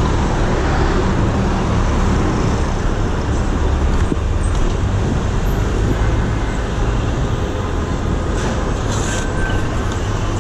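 Steady city traffic noise and rushing wind on a chest-mounted action camera while riding a BMX bike through traffic.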